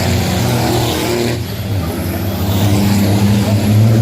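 Diesel racing trucks running hard on track, a steady engine drone that dips briefly a little over a second in and then builds again.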